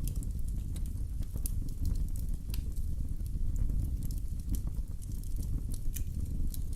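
Wood fire in a fireplace burning with a steady low rumble of flames and irregular sharp crackles and pops.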